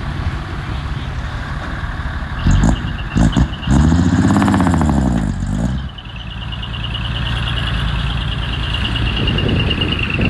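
Heavy diesel machinery engine running, with a few knocks before it revs up and back down about halfway through. In the second half a high-pitched squeal pulses rapidly over the engine.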